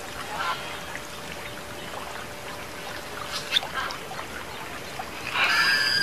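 Water trickling over a fountain, with a few short bird calls about three and a half seconds in and a louder, harsh bird call near the end.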